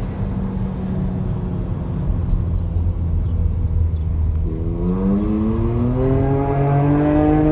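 A motor vehicle's engine with a steady low rumble. About two-thirds of the way through it rises in pitch as it accelerates, then holds a steady note.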